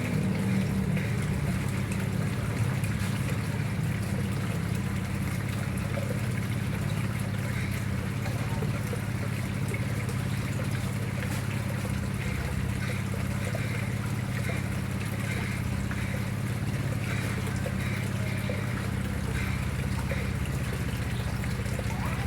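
Water trickling and flowing steadily into a koi pond, over a steady low hum.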